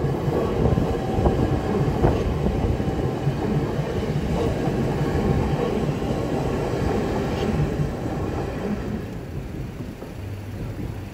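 London Overground Class 378 electric multiple unit passing close by over a level crossing: a steady rumble of the cars, with a few wheel knocks over the rail joints early on. The sound fades away about eight seconds in as the last car clears.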